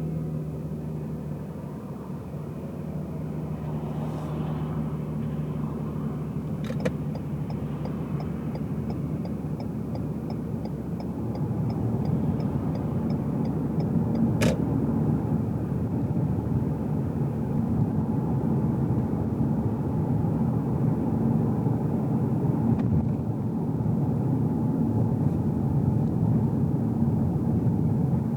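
Car engine and road noise heard inside the cabin, growing louder about twelve seconds in. A sharp click about seven seconds in is followed by the turn-signal indicator ticking evenly for about seven seconds, ending with another click.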